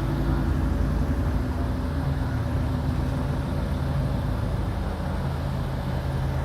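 Motor vehicle engine running steadily, a low, even hum.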